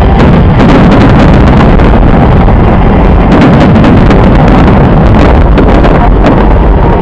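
Fireworks going off in rapid succession, a continuous rumble of booms and crackles so loud that it overloads the microphone.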